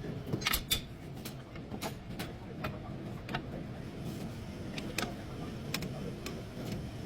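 Scattered metallic clicks and light knocks of hand tools and parts being handled during car repair work, irregular and a second or so apart, over a steady low hum.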